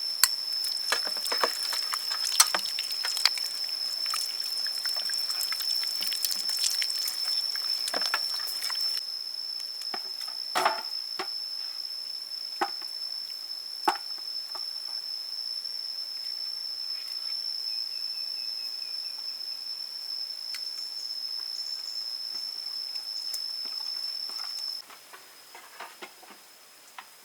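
A steady high-pitched insect drone, with scattered clicks, knocks and watery sounds of food preparation, thickest in the first third; the drone and background cut off suddenly near the end.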